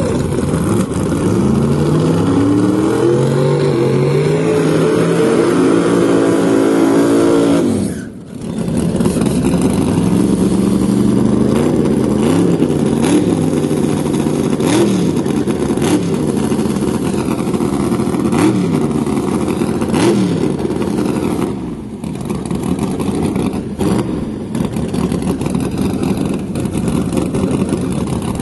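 Drag car engines revving loudly. For the first eight seconds the engine pitch climbs in steps, then it breaks off suddenly. After that the engine is revved up and down, with several sharp pops.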